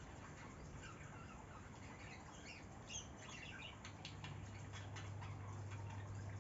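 Faint chirping of small birds, short squeaky calls clustered near the middle, among scattered light clicks; a steady low hum joins about four seconds in.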